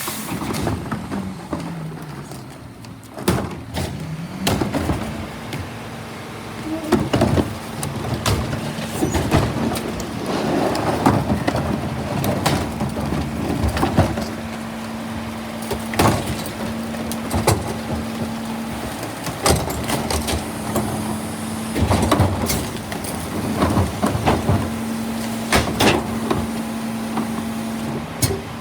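Garbage truck running, its engine pitch dropping and then rising again in the first few seconds, then a steady hum, with repeated knocks and clanks throughout.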